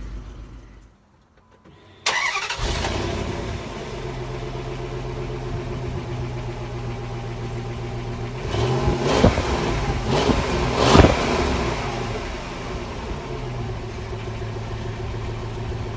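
Dodge Durango's 4.7-litre V8 catching about two seconds in and settling to a steady idle. In the middle it is revved twice, the second rev the louder, then drops back to idle.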